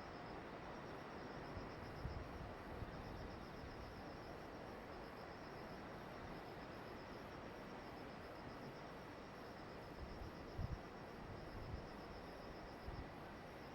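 Insects chirping in a steady, pulsing rhythm over a constant low hiss, with a few brief low thumps.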